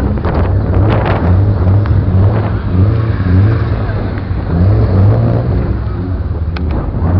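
BMW E34 5 Series car engine running loud and low, its revs rising and falling several times as the car is driven slowly.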